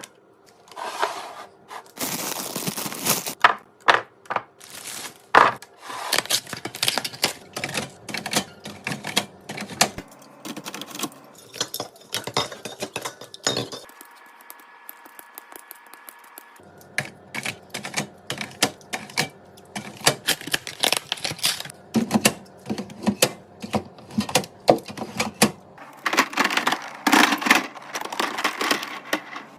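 Rapid clicks and clacks of packaged food and containers being handled and set down while a fridge is restocked, with stretches of packaging rustle. There is a brief lull about halfway.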